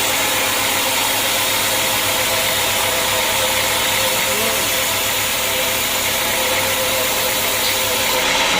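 Sawmill machinery running steadily: an even, loud mechanical drone with several steady tones.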